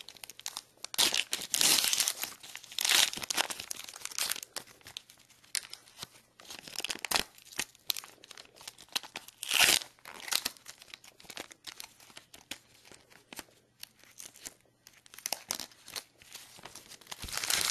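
Trading-card pack wrapper being torn open and crinkled, with irregular rustling and scraping; the loudest tears come about one to three seconds in and again about ten seconds in.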